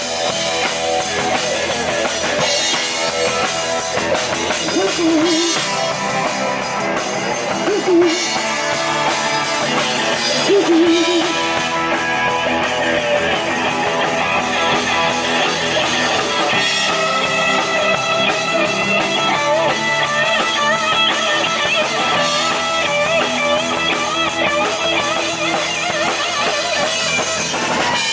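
Live rock band playing an instrumental stretch: a lead electric guitar solo with bent, wavering notes over a drum kit.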